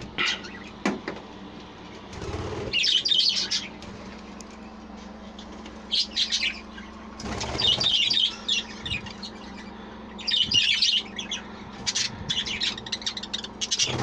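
Budgerigars chattering and chirping in repeated short bursts, with wings fluttering a couple of times as birds flit about the flight.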